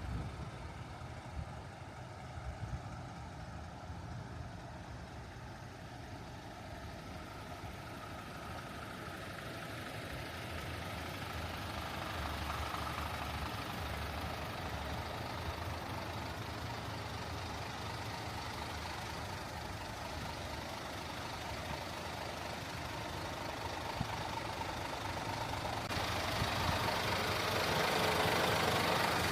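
Scania P410 truck's diesel engine running at idle, a steady low hum that grows louder and brighter toward the end.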